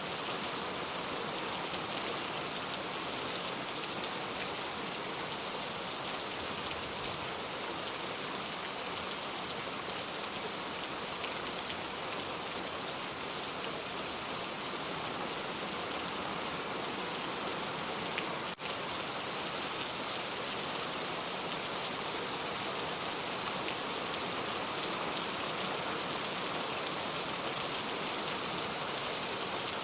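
Steady rain falling, an even hiss of many drops on surfaces. There is one brief click and dropout about two-thirds of the way through.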